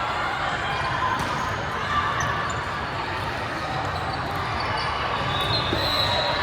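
Volleyball match ambience in a gym: a hubbub of voices with a ball bouncing on the court floor.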